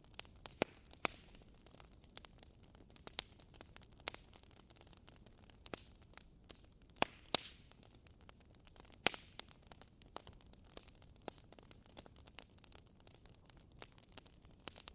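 Wood fire crackling in a fireplace: a soft steady hiss with sharp pops and snaps at irregular intervals, a few louder ones standing out.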